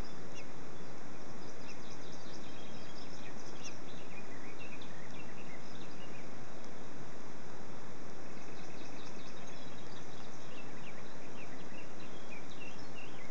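Steady noise with many faint, short high bird chirps scattered through it, bunched about four seconds in and again from about nine seconds on.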